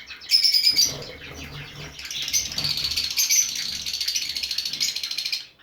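Caged finches, Java sparrows among them, chirping busily together, with wings fluttering; it drops off suddenly near the end.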